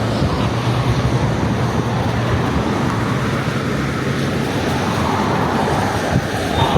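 Road traffic passing: a vehicle's low engine hum over a steady rushing noise, the hum fading after about four seconds.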